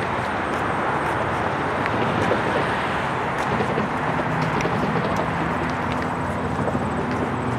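GO Transit bi-level commuter train pulling into the platform: a steady rumble of wheels on rail as the cars roll past, with a low hum coming in about four seconds in.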